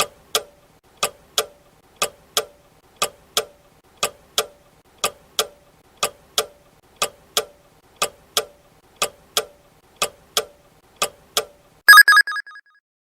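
Quiz countdown-timer sound effect: a clock ticking tick-tock about once a second for twelve seconds, then a short, loud ringing alarm bell as the answer time runs out.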